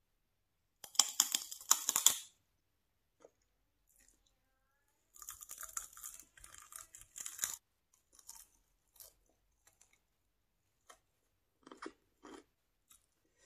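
Loud crunching bites into a raw celery stick with hummus, then a second longer run of crunching and tearing as a chicken wing is bitten about five seconds in. Softer, scattered chewing and mouth clicks follow near the end.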